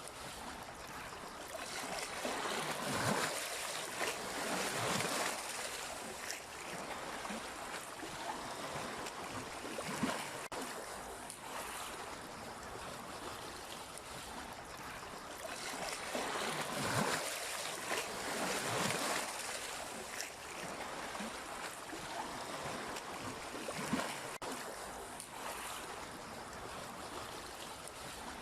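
Sea waves washing onto the shore: a steady wash of surf that swells every few seconds as waves break and run up the beach.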